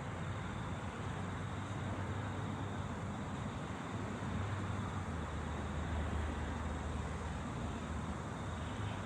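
Train running with a steady low hum over a haze of noise.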